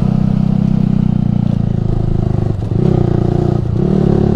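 Yamaha R15 V3's 155 cc single-cylinder engine running under way through a Ronin Musashi aftermarket exhaust, a steady note that dips briefly twice, about two and a half and three and a half seconds in.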